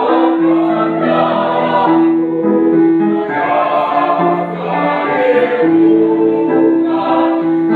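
Choir singing in harmony, holding long sustained notes that change every second or two.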